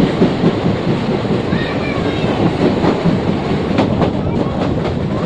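Passenger train running on the rails, heard from on board: a steady loud rumble of wheels and carriages, with clicks from the wheels passing over rail joints in the second half.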